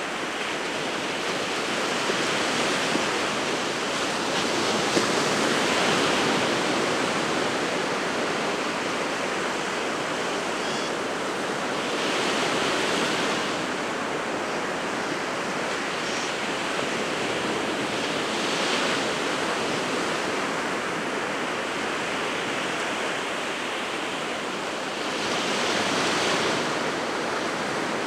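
Winter Sea of Japan surf breaking on the shore: a continuous wash of surf that swells louder about five times as waves come in and break.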